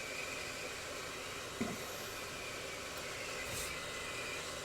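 Steady hiss of a hot air rework station blowing at high airflow onto a circuit board, heating a chip whose solder has not yet melted. A faint knock comes about one and a half seconds in.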